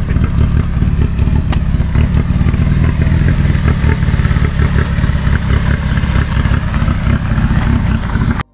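A car engine running at idle, a loud, low, pulsing rumble that holds steady, with a few light clicks over it.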